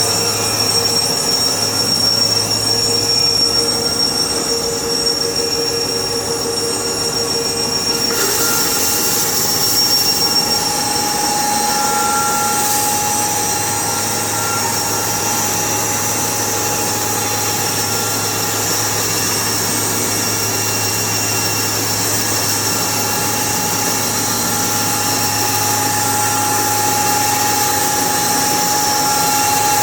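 Sawmill running steadily with a high-pitched whine and a low hum; about eight seconds in a harsher hiss joins and carries on.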